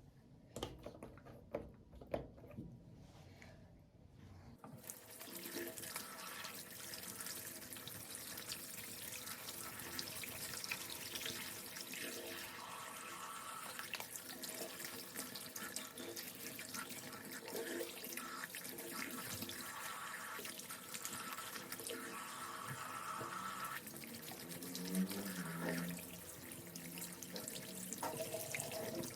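A few light clicks, then a water tap turned on about five seconds in, running steadily into a sink, with the splashing changing as things are held under the stream.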